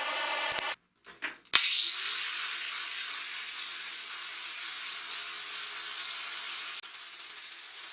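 A high-speed power tool clicks on, its motor whine rising quickly and then holding as a steady high whine over a dense hiss. The tool runs on at an even speed.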